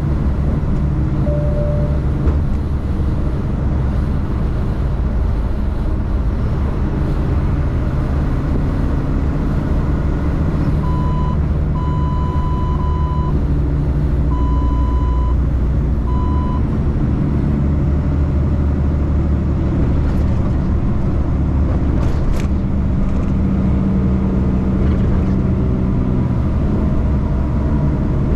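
Truck engine and road noise droning steadily inside the cab while driving. About a third of the way in, four short electronic beeps sound, two of them longer than the others.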